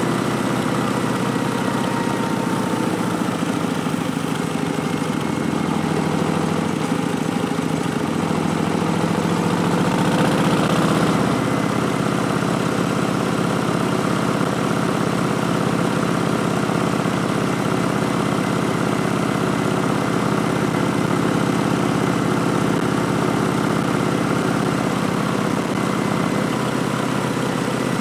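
2019 Harley-Davidson Street Bob's Milwaukee-Eight 107 V-twin running through Vance & Hines Twin Slash slip-on exhausts. The engine note shifts in pitch and gets a little louder about ten seconds in, then settles to a steady run.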